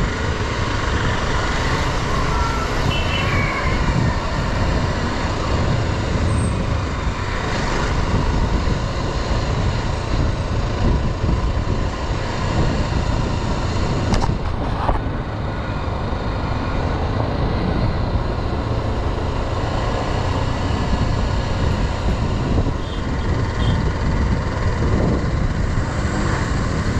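Riding a motorcycle on the road: steady rush of wind and road noise over the microphone, mixed with the engine running, for the whole stretch.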